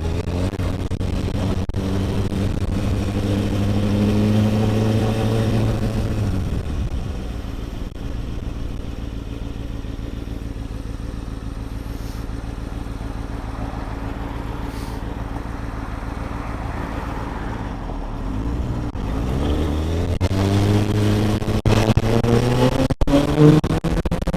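Kawasaki ZX-6R 636 inline-four engine running. The revs drop off about six seconds in and the engine then runs low and steady for a long stretch. About nineteen seconds in it revs up again, accelerating, with a few sharp clicks near the end.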